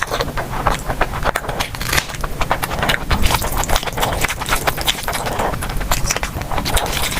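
Close-miked eating sounds of a person chewing: a rapid, irregular string of sharp clicks and crunches from the mouth and food.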